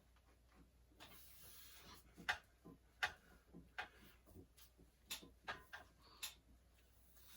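Faint, irregular clicks and knocks, a dozen or so scattered through the last five seconds.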